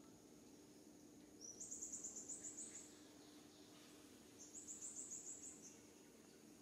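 A bird calling faintly: two short phrases, each a quick run of about eight high notes, about three seconds apart.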